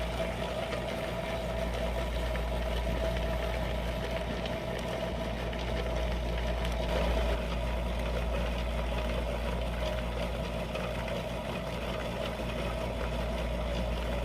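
Rotary rock tumbler running with its two barrels turning: a steady motor hum under the continuous churning of rocks and grit rolling inside the barrels.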